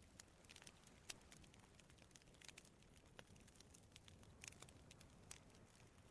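Campfire of burning wood crackling faintly: irregular small pops and snaps over a low steady rush.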